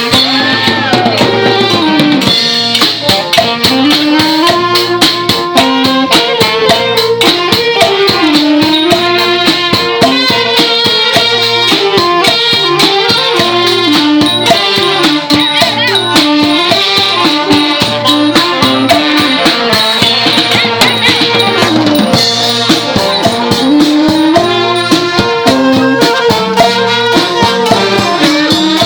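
Thai brass band (trae wong) playing a lively melody with a wind lead over dense, fast, steady drum and percussion strokes.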